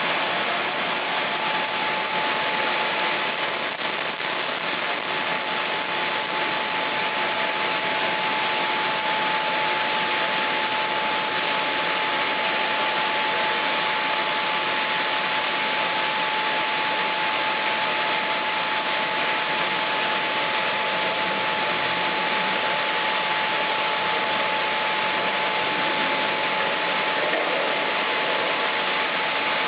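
Sawmill machinery running steadily, a constant hiss with one unchanging high whine held throughout.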